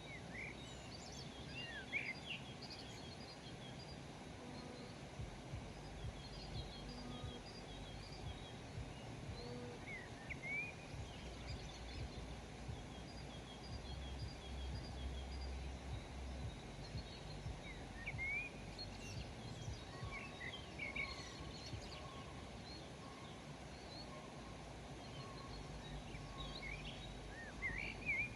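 Small birds chirping and calling at intervals, short high notes and quick rising calls, over a steady low background rumble.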